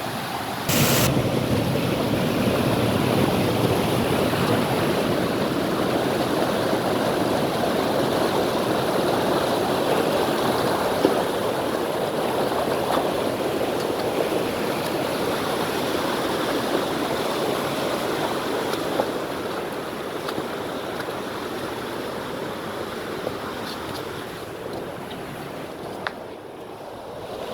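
Stream water rushing steadily over rocks, with a sharp click about a second in after which it sounds louder.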